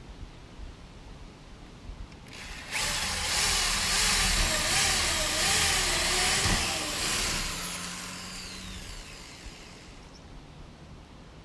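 Power drill driving a wood screw into a plank, its motor pitch wavering up and down under load for about four seconds, then fading out.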